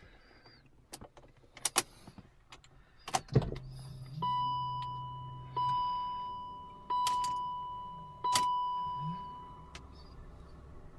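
Key clicks at the ignition of a 2003 BMW 525i (E39), then a low hum for about two seconds and the car's warning chime ringing four times about 1.4 s apart, each ding fading away. No starter cranking follows: the no-crank fault.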